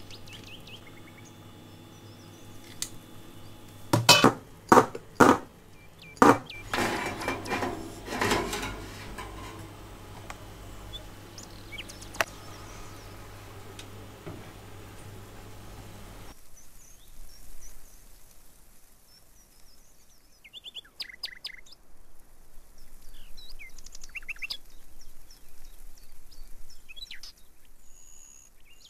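Several sharp knocks and some clatter of kitchenware about four to eight seconds in, over a steady low hum. About halfway through the hum stops and birds chirp in short, high calls for the rest.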